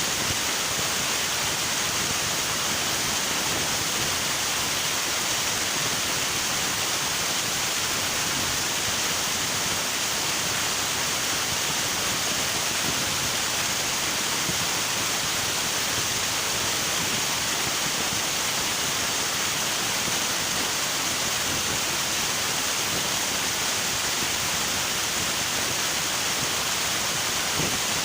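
River water rushing steadily, an even, unbroken hiss with no changes.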